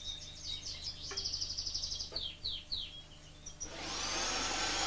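Fife canaries chirping and trilling in quick, high, downward-sliding notes. Near the end a steady, louder rushing, whirring noise starts up and covers them.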